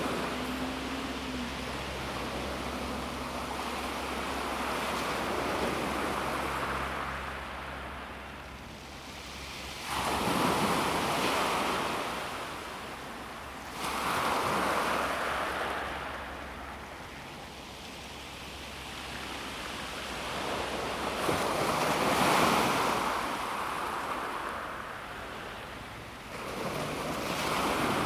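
Calm sea waves breaking on a pebble shore and washing back. Four surges come in, each starting suddenly and fading over a few seconds.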